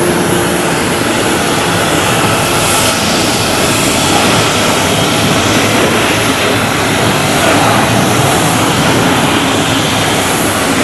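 Jet airliner engines running loud and steady, a dense rushing noise that doesn't let up.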